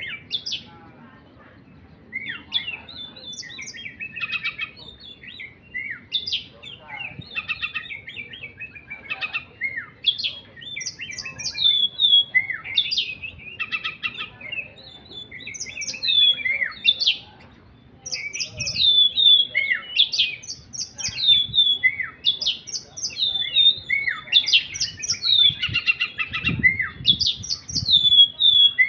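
A songbird singing almost without pause in fast, varied phrases of chirps and whistles, many notes sweeping down in pitch, with short breaks about two seconds in and again just before the twentieth second.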